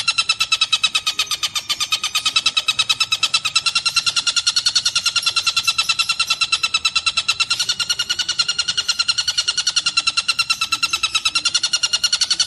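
Tengkek buto (stork-billed kingfisher) calling in a long, rapid trill of even, same-pitched notes, about eight a second, without a break.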